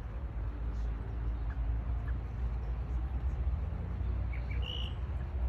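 A steady low rumble with a few faint bird chirps over it and one short, higher bird call near the end.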